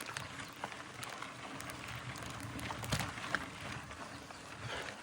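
Mountain bike rolling over a dirt trail: a steady low rumble of tyres with scattered clicks and knocks from the bike over bumps.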